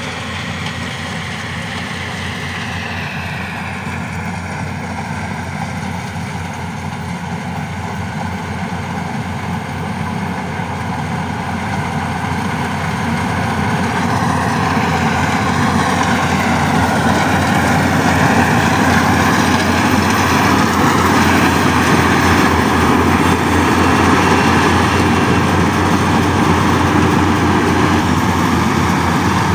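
Yanmar AW70V combine harvester's diesel engine running steadily, growing louder about halfway through and then holding at that level.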